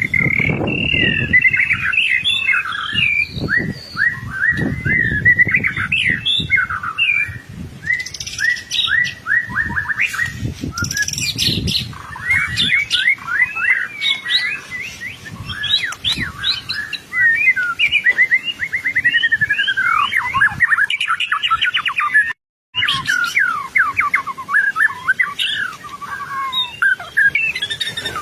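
White-rumped shama (murai batu) in full song: a continuous, fast, varied stream of whistles, trills and rapid repeated notes, which cuts out completely for a moment about 22 seconds in.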